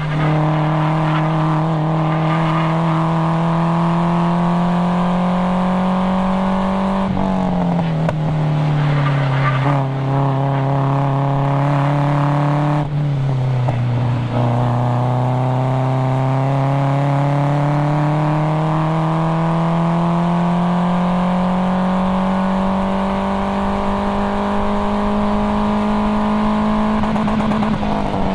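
Nissan 240SX's KA24DE four-cylinder engine running hard under load, its pitch climbing steadily. The revs drop sharply about seven seconds in and again around thirteen seconds in, then climb slowly again.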